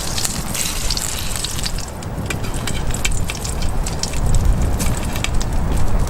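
Small campfire crackling and hissing, with many sharp irregular pops. A low rumble of wind on the microphone runs underneath.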